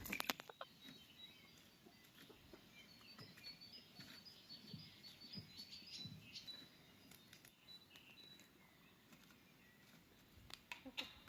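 Faint birds chirping in short, high notes, with a quick run of clicks at the very start and a few sharp knocks near the end.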